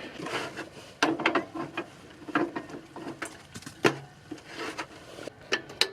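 A string of irregular clicks and knocks from working the controls of a Mr. Heater Buddy portable propane heater to light its pilot.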